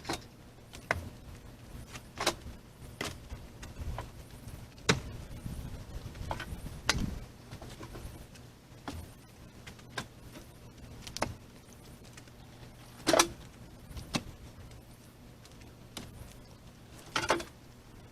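Pieces of split firewood being tossed off a load and onto a pile, landing with sharp wooden knocks every second or two at an uneven pace.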